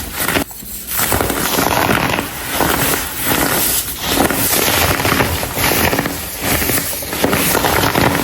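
Blocks of dried, coloured baking soda crumbling and crunching in a dense crackle, swelling with each squeeze about once a second, with a brief lull about half a second in.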